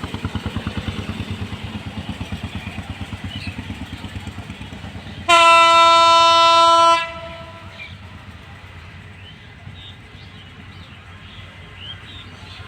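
A diesel locomotive-hauled train running past with a fast, even pulsing rumble. A little over five seconds in, the locomotive gives one loud horn blast lasting under two seconds, and a quieter rumble follows.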